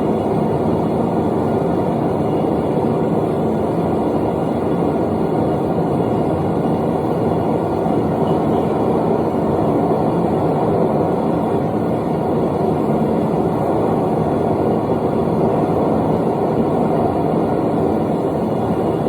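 A forge running with a steady, even roar that neither rises nor falls.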